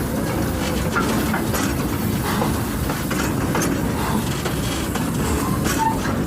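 Heritage-railway wagon behind a steam locomotive rolling along the track: a steady rumble with scattered clicks and rattles, and a short squeak near the end.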